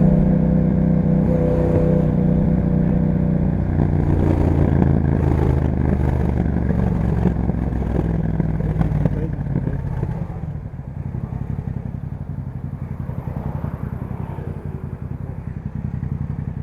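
2021 Yamaha MT-07's parallel-twin engine through an Akrapovic aftermarket exhaust with a dB killer, running steadily at first. It then roughens, and about ten seconds in eases off to a quieter, evenly pulsing low beat.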